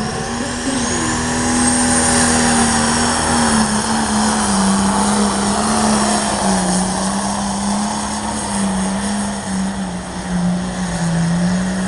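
Pulling truck or tractor engine running hard at high revs under load during a pull, its note rising at the start and then holding steady with small dips, over a high whine that climbs in the first couple of seconds.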